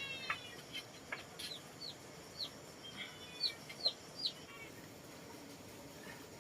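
Chickens calling: a string of short, high, falling peeps, about two a second, that stops a little after the middle.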